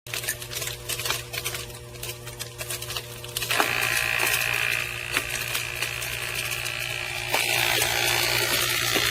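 Sink food waste disposer switched on and running with a steady motor hum and a clattering, rattling noise, the abnormal noise of a foreign object jammed inside. About three and a half seconds in a high scraping whine joins, and it gets louder about seven seconds in.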